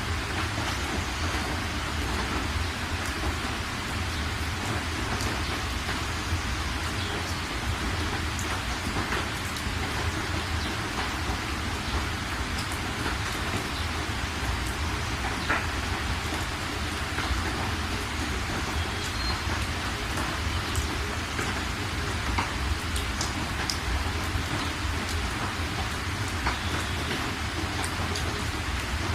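Steady rain falling: a continuous hiss dotted with scattered sharp drop ticks, over a low steady rumble.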